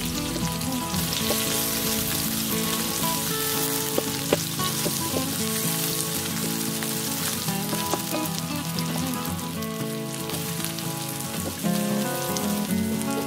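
Sliced onion and garlic sizzling in hot oil in a pan, with a wooden spatula stirring and tapping now and then. Soft background music with held notes plays underneath.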